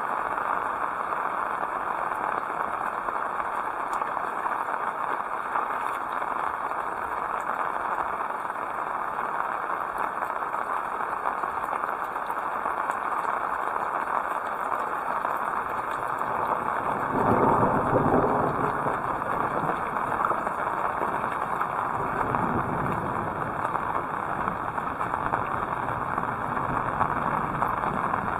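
Heavy rain falling in a steady hiss. About two-thirds of the way through, a louder, deeper rumble swells for a couple of seconds and then fades out slowly.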